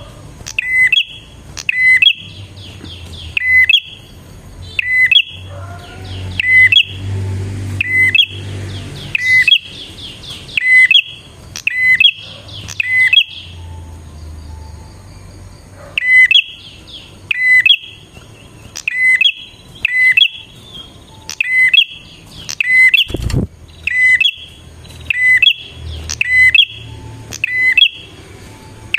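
Prinia (prenjak) calling: a loud, sharp chirp repeated about once a second, broken in places by rapid rattling trills. A single thump comes about two-thirds of the way through.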